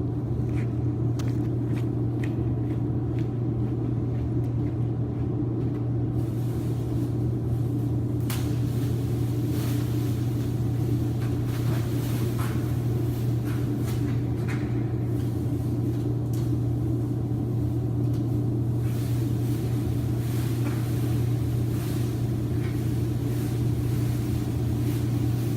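Mercedes C63 AMG Black Series' 6.2-litre naturally aspirated V8 idling steadily after a cold start, a deep even rumble that holds the same level throughout, with a few faint clicks over it.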